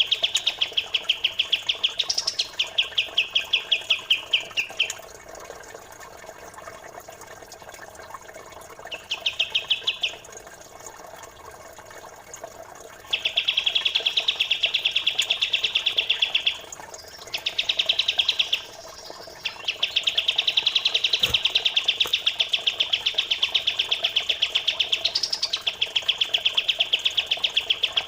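Small songbirds chirping in rapid, tightly packed runs of sharp notes, several a second, each run lasting a few seconds with short pauses between, over faintly trickling water.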